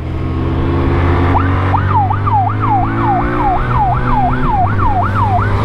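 Police motorcycle's electronic siren in a fast yelp, each cycle sweeping up quickly and falling back, about two and a half times a second. It starts about a second and a half in and stops near the end, over the steady hum of the Honda ST1300's V4 engine under way.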